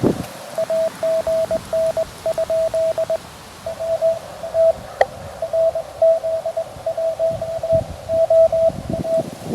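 Morse code (CW) from a QRP Labs QMX transceiver: one steady mid-pitched tone keyed on and off in short and long elements. A single sharp click sounds about halfway through.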